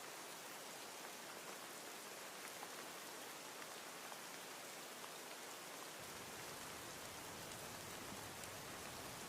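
Steady rain falling: an even hiss with scattered fine drop ticks. About six seconds in, a deeper low rumble joins underneath.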